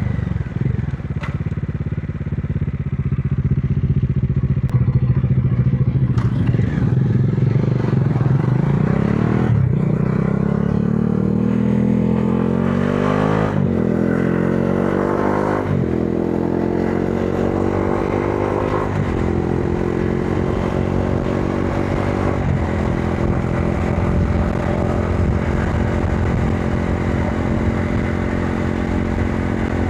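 Modenas Dominar 400's single-cylinder engine riding at a low steady pitch, then pulling up through the gears: the pitch climbs and drops sharply at each of about four upshifts in the middle, before it settles into a steady cruise.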